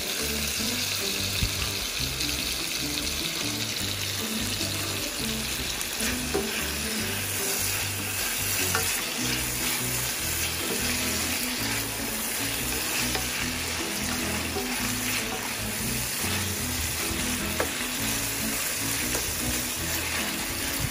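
Sliced onions and tomatoes sizzling in hot oil in an enamelled cast-iron pan, stirred with a spatula, with a few light taps against the pan.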